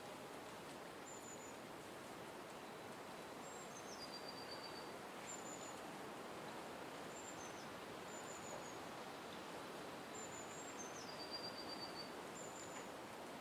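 A small songbird repeating a high, thin phrase of short held notes that step down in pitch, about every two to three seconds, over a steady background rush.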